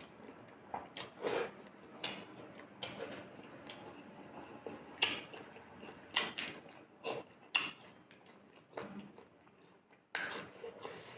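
Close-miked mouth sounds of eating by hand: wet chewing with sharp lip smacks and clicks at irregular intervals, a few louder ones about five, six and a half and ten seconds in, along with soft squelches of fingers working the food.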